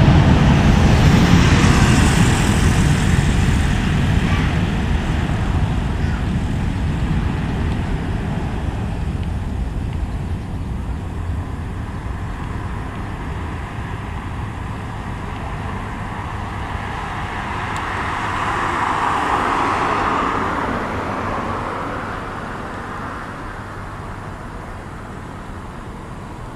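Airbus A330-300 jet engines at takeoff thrust, a deep rumble that fades steadily as the airliner climbs away, with a brief swell of noise about three-quarters of the way through.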